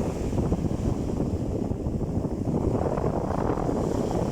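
Wind buffeting the microphone as a steady low rumble, with the sea's surf underneath.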